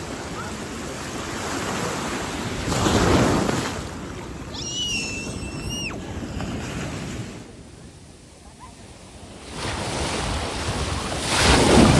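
Ocean surf washing onto a beach, with wind on the microphone; the waves swell loudest about three seconds in and again near the end. A brief high-pitched call sounds about five seconds in.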